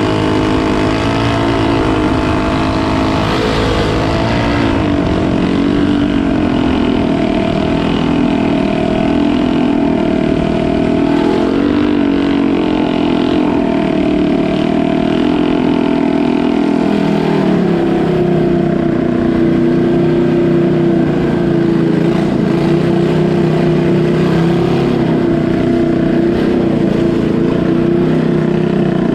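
A canal boat's engine running loudly, its pitch wavering as the speed changes, then holding steadier and slightly higher from about two-thirds of the way through.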